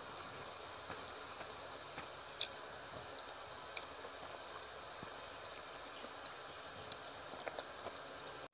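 Close-up eating sounds: wet mouth clicks and smacks while chewing food eaten by hand, over a steady faint hiss, with one sharper click about two and a half seconds in and a few more near the end.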